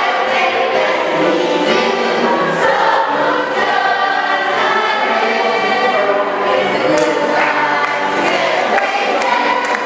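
A choir singing a gospel hymn, many voices together with sustained notes.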